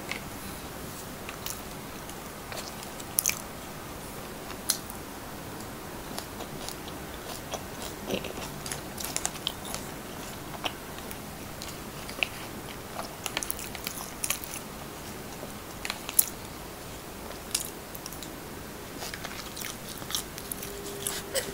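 A person chewing and eating, with irregular sharp clicks and smacks scattered through, over a steady hiss.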